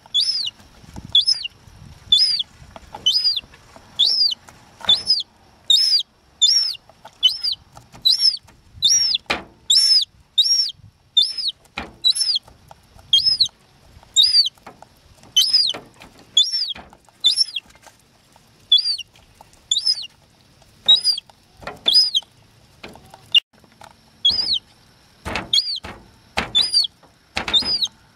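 Young gull chick peeping over and over: thin, high calls that each rise and fall in pitch, about one or two a second, without a break.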